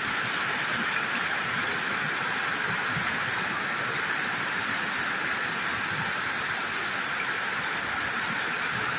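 Swollen flood stream rushing steadily.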